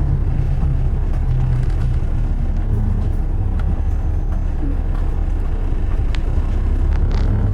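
Steady low rumble of road traffic and vehicle engines, with a few faint clicks.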